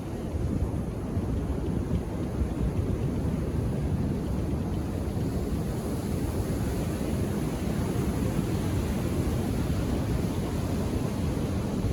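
Indian Ocean surf washing steadily onto a beach: a continuous low rush of calm waves with no distinct breaks.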